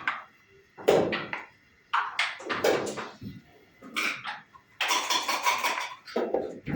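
Backgammon pieces in play: dice rattled in a cup and thrown, and checkers clacked down on the board, a run of sharp irregular clicks with a dense rattle about five seconds in.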